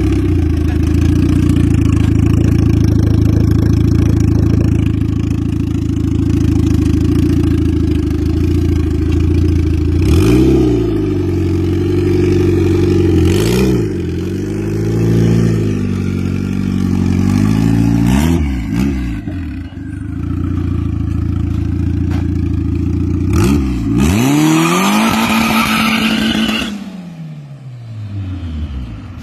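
Subaru EJ flat-four engine with a hood-exit exhaust idling, then blipped four times, each rev rising and falling back. After the last blip the deep idle tone drops away and the sound fades near the end.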